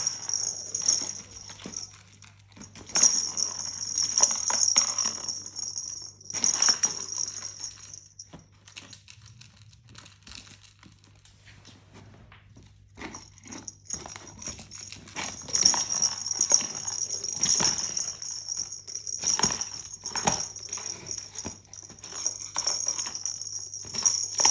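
A cat making noise during rough play, with scattered knocks and scuffling. A high, steady shimmering sound comes and goes, falling away for several seconds in the middle.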